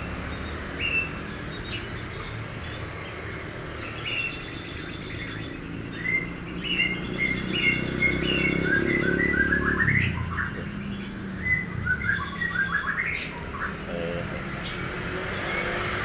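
Pet parrots chirping and calling: many short high chirps throughout, with quick runs of rising notes in the middle, over a low background rumble.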